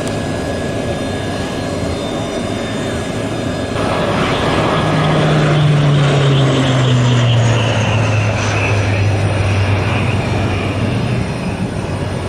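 Aircraft flying past in a display, its engine noise swelling about four seconds in while the engine tone drops in pitch as it passes, then easing off near the end.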